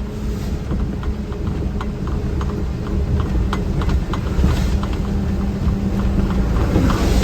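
Vehicle running on the road, heard from inside the cab: a steady low engine drone, with many short, irregular clicks and ticks over it.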